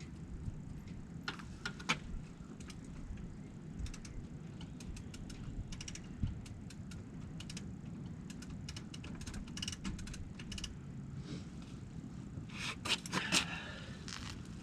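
Scattered metallic clicks, rattles and clanks as an engine is worked down into its mounts, over a steady low rumble, with a brief cluster of rattling near the end.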